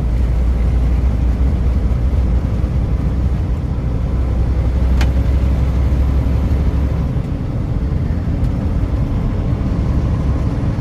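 Truck on the move: a steady low engine and road rumble whose deepest part eases off about seven seconds in, with a single sharp click about halfway through.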